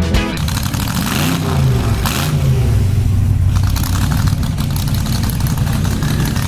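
A car engine running, revving up and back down about a second in, then holding a steady pitch.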